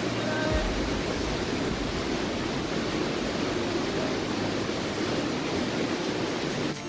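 Waterfall: a steady roar of falling water that cuts off suddenly near the end.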